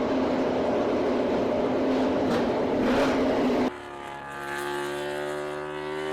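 MotoGP racing motorcycle engine at high revs, steady in pitch, cut off abruptly about two-thirds in. A second bike's engine follows, its pitch climbing steadily as it accelerates toward the microphone.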